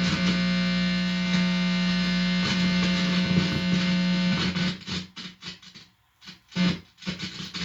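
Guitar amplifier giving out a loud, steady electrical buzz with many overtones, picked up through an instrument cord with its tip held against the body. About four and a half seconds in, the buzz breaks up into short choppy bursts with gaps between them.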